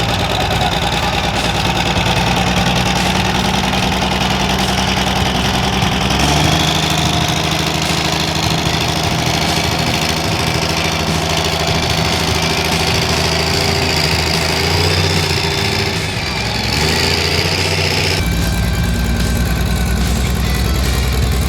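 A monster truck's Cummins turbo-diesel engine running steadily. Its tone changes abruptly three times, about 6, 17 and 18 seconds in.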